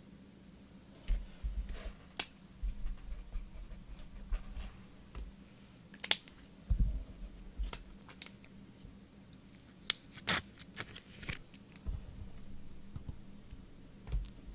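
Trading cards and their packaging handled on a table: scattered clicks, short scrapes and rustles, with a few dull thumps, busiest near the end.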